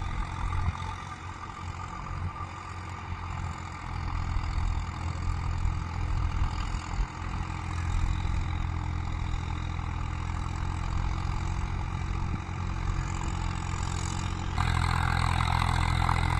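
Swaraj tractor's diesel engine running steadily under load while pulling an 8-foot Param rotavator through the soil. About fourteen and a half seconds in it gets louder, with more clatter and rush in the mid range.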